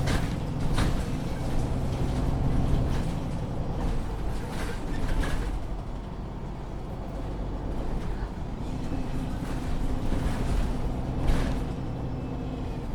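Ride noise inside a MAN Lion's City 19C EfficientHybrid articulated city bus: the engine runs low and drops back right at the start, with sharp knocks and rattles from the body every few seconds.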